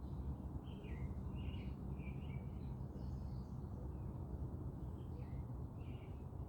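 Small birds chirping in short, scattered notes over a steady low background rumble.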